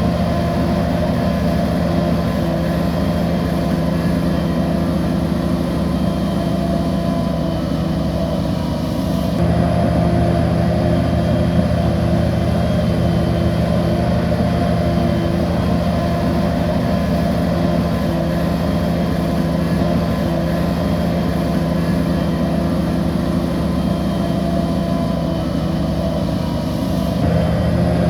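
Bulldozer diesel engine running steadily under load, with a strong constant hum. The sound changes abruptly about nine seconds in and again near the end.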